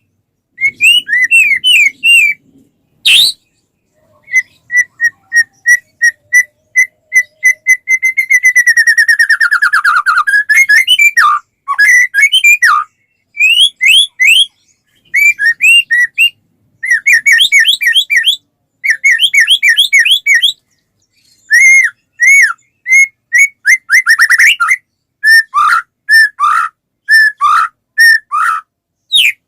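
White-rumped shama (murai batu) in full, continuous song: a loud run of varied clear whistled phrases. About a third of the way in, a string of short repeated notes speeds into a fast falling trill.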